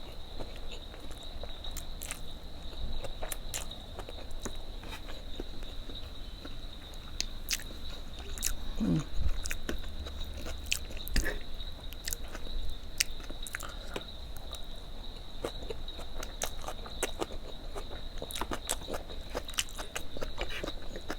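Close-miked eating: chewing and biting with many small wet mouth clicks and smacks, over a faint steady high-pitched tone, with a brief low hum about nine seconds in.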